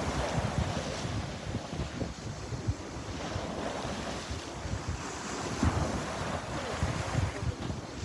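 Sea waves washing onto the shore, with wind buffeting the microphone in low rumbling gusts.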